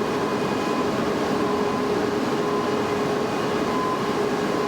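Steady mechanical hum: an even rushing noise with two constant tones, one middling and one higher, unchanging throughout.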